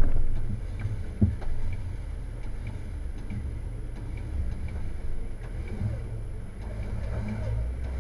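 Jeep Wrangler engine running low and steady as it crawls up a rock ledge, with a sharp knock right at the start and another about a second in.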